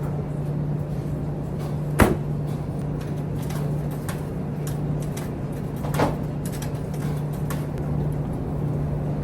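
A steady low machine hum with two sharp knocks about four seconds apart and a few faint ticks.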